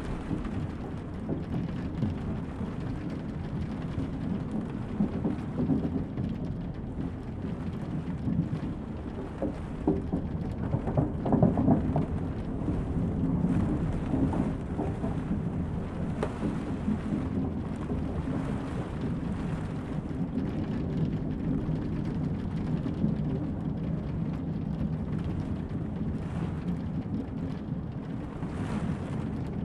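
Steady heavy rain over a continuous low rumble, which swells briefly about ten to twelve seconds in.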